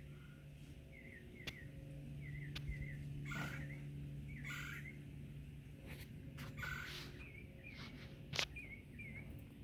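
A bird calling from the trees in runs of short, wavering chirps, over a steady low hum, with a few scattered clicks and rustles.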